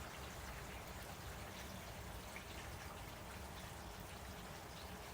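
Faint, steady rain falling, with a few light drop ticks.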